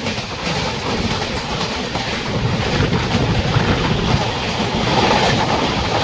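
A train passing close by, its wagons' wheels rumbling and clattering over the rail joints in a steady clickety-clack.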